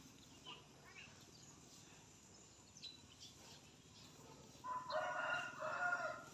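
A loud bird call lasting about a second and a half, starting near the end, with a short break partway through; faint short chirps come before it.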